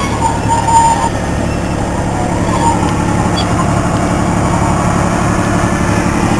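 Engine of a ride-on miniature zoo train running steadily as the train travels along.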